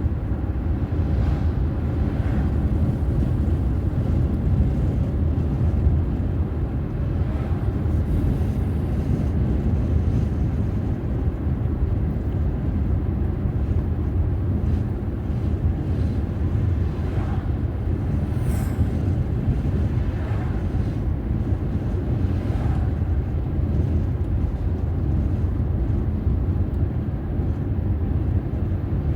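Car driving along a road: steady low rumble of road and engine noise, with faint swells now and then.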